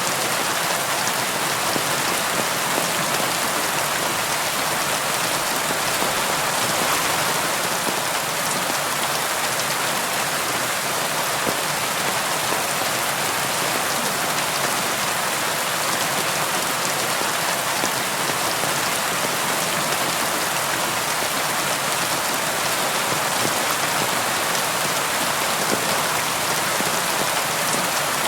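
Steady rain falling, an even hiss of many fine drops on a surface with no thunder.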